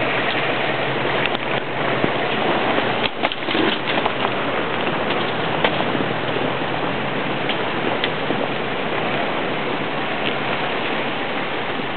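An off-road 4x4's engine running as it crawls over rocks, under a loud steady hiss, with a few sharp clicks about three to four seconds in.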